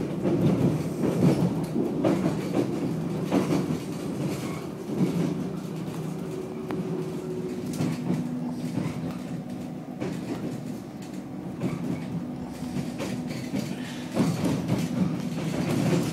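Electric commuter train running, heard from inside the carriage: wheels clacking over rail joints and points over a steady motor hum and rumble. It is louder near the start and again near the end.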